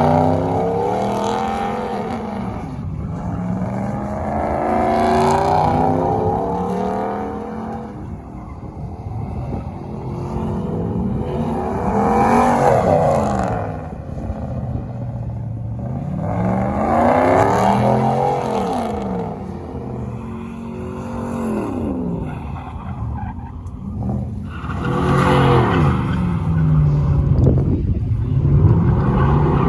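Vehicle engine revving: its pitch climbs and falls back several times, loud throughout.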